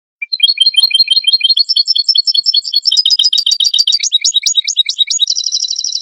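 European goldfinch singing a fast twittering song of rapid, high, liquid notes, ending in a quick buzzy trill near the end.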